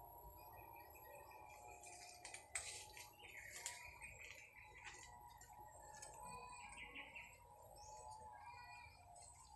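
Faint, short, high bird chirps scattered through, with a few sharp clicks.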